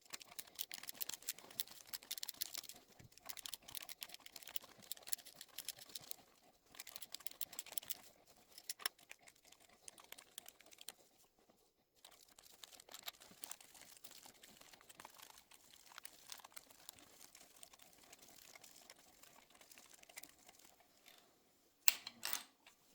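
Hand tools working on the Yamaha R1's cylinder head as the cam carrier bolts are backed off: bursts of light, rapid clicking like a ratchet, denser in the first few seconds and sparser after, with one sharper metal knock near the end.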